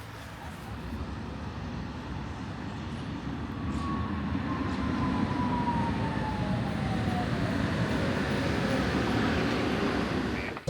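Steady running noise of a moving vehicle, growing louder over the first few seconds, with a faint whine that falls in pitch midway; it cuts off suddenly at the end.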